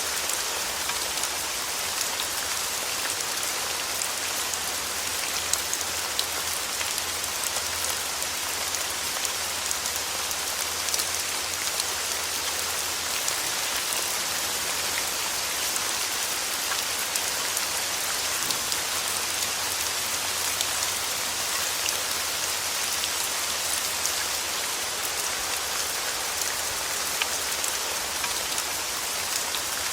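Steady rain falling as an even hiss, with faint scattered drop ticks.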